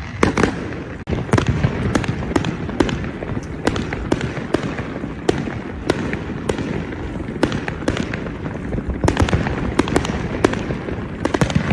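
Aerial fireworks bursting in a rapid, dense volley of sharp bangs and crackles over a continuous low rumble, the closing barrage of a fireworks display.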